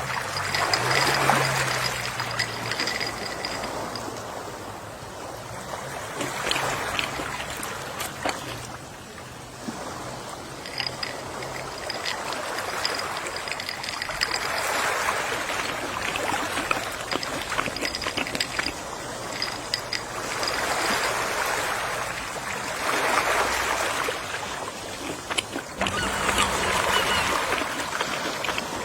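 Gentle sea waves washing onto a shore, each wave swelling and then fading, about one every five or six seconds.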